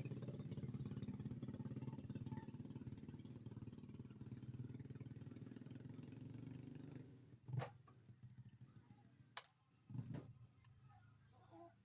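A steady engine hum that dies away about seven seconds in, followed by three separate sharp knocks.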